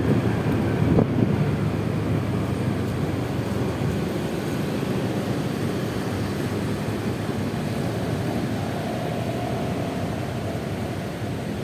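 Wind rushing over the microphone mixed with the running engine and road noise of a Honda Vario 125 scooter on the move, the rush easing off gradually.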